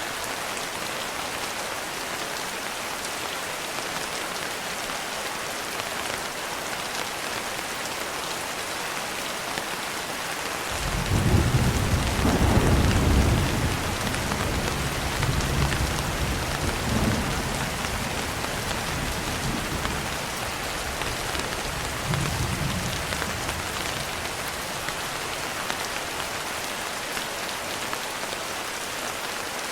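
Steady rain falling, with a low rolling rumble of thunder that comes in about a third of the way through, is loudest for a few seconds, then slowly dies away with one smaller swell before it fades.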